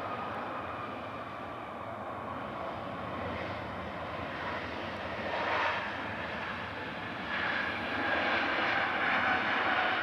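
Jet airliner engines: a steady rushing noise with a high whine that falls slightly in pitch, growing louder toward the end.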